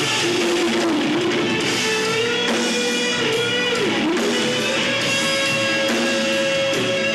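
A live rock band plays an instrumental passage: guitars over a drum kit. A lead line holds long notes, slides up, and dips sharply about four seconds in.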